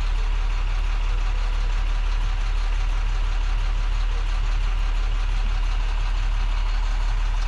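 26-foot box truck's engine idling, a steady low rumble heard from the cab.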